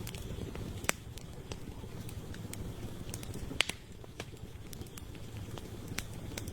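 Wood fire burning with a steady low rumble and scattered sharp crackles and pops, two louder pops about a second in and past the halfway point.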